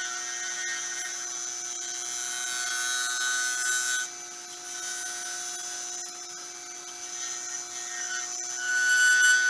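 Wood lathe running with a steady hum while a gouge cuts a spinning blank of sticks cast in resin, a hissing cut that eases off about four seconds in and grows louder near the end.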